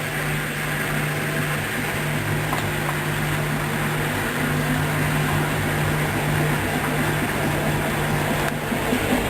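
Hoover Dynamic DYN 10124 DP washing machine during its third intermediate spin: the drum turning with a steady motor hum and rushing noise that shifts slightly near the end.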